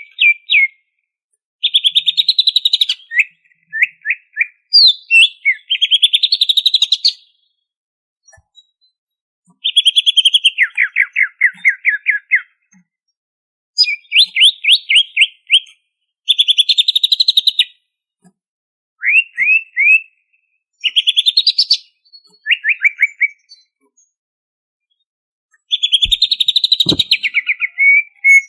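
Cucak ijo (green leafbird) singing loudly in bursts of fast, repeated whistled notes, each phrase one to two seconds long with short pauses between, some phrases running down in pitch. A soft low thump comes near the end.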